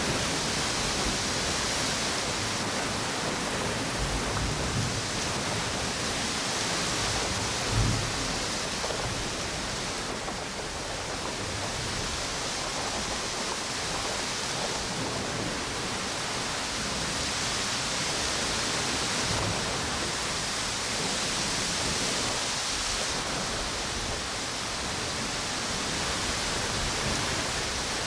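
Steady rushing of wind and ocean waves on a beach, swelling and easing slowly. Low gusts buffet the microphone now and then, the strongest about eight seconds in.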